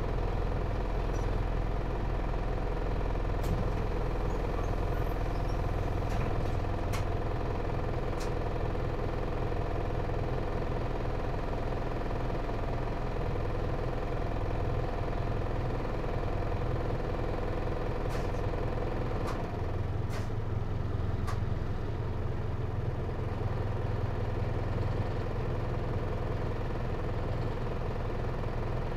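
Hino Liesse microbus's J05C four-cylinder diesel engine running steadily at low revs, with a deep hum. The lowest part of the hum drops away about two-thirds of the way through, and a few faint clicks sound over it.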